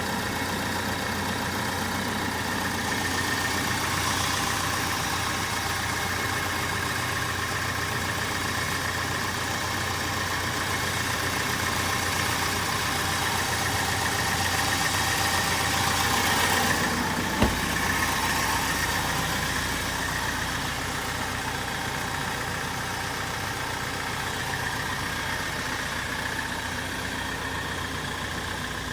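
Isuzu Elf truck's engine idling steadily, with one sharp knock about 17 seconds in.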